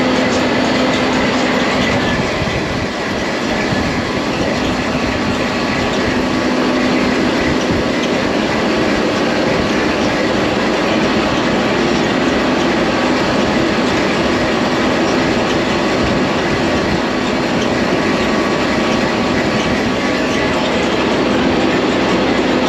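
Heard from aboard a moving open-air tram: a steady run of vehicle noise with rattling. A steady low hum in it drops out about three seconds in and comes back near the end.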